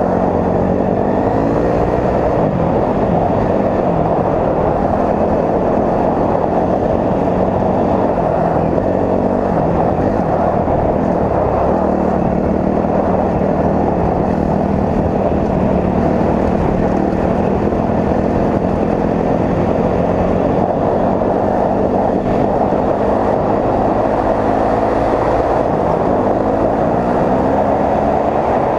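Four-stroke dirt bike engine running under way, its pitch rising and falling again and again as the throttle opens and closes.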